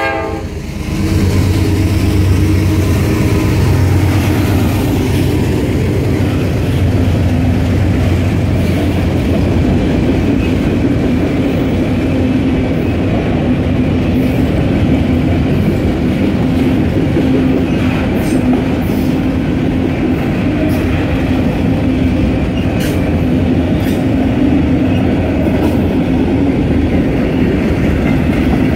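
Freight cars of a mixed freight train rolling past at a grade crossing: a loud, steady rumble of steel wheels on rail that swells about a second in and carries on unbroken, with a few sharp clicks of wheels over rail joints.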